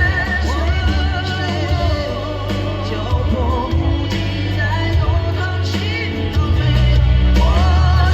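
Live pop-rock band playing, with a male singer holding long wavering notes over a heavy bass line.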